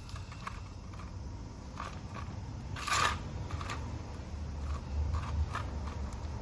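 Small clicks and light scrapes of hands working with succulents, pots and soil during re-potting, with one louder scraping rustle about three seconds in, over a low steady rumble.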